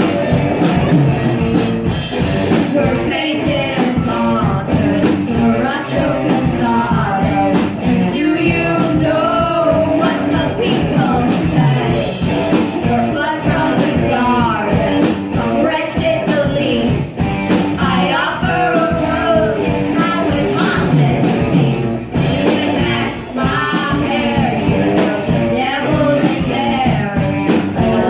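Hard-driving rock song with singing over distorted electric guitars, bass and a steady drum beat.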